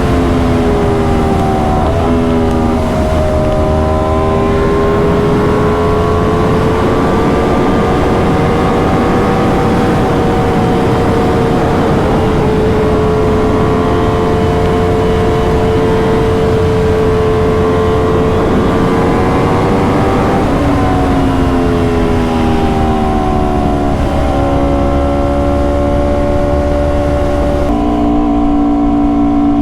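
Aprilia RSV4's V4 engine under way on the road, its pitch mostly holding steady, with a few clear steps where gears change. It falls away from about two-thirds in as the bike slows. Steady wind rumble runs underneath.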